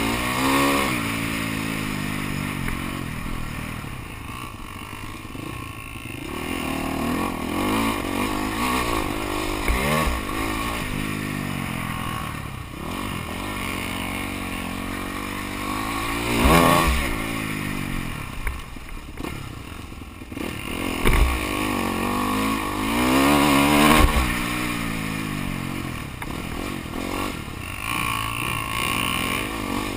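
Motocross bike engines revving hard on a dirt track, the pitch climbing and dropping again and again, with a few louder passes.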